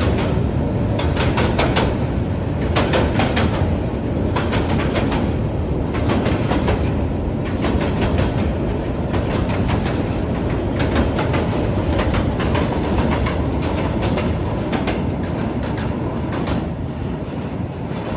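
A train running past on the tracks, its wheels clicking repeatedly over rail joints above a steady rumble. The sound fades near the end.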